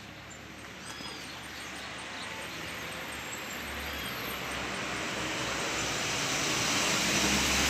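A steady rushing noise that grows gradually louder throughout, with a low rumble underneath and a couple of faint high chirps about one and four seconds in.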